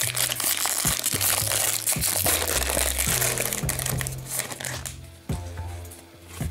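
Foil trading-card pack wrapper being torn open and crinkled, with dense crackling for the first four seconds or so, then dying away, over background music.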